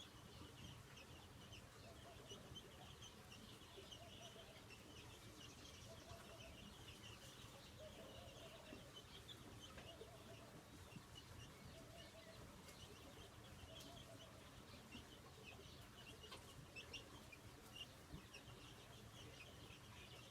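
Faint bird calls: many short, high chirps throughout, with a series of lower calls in the middle.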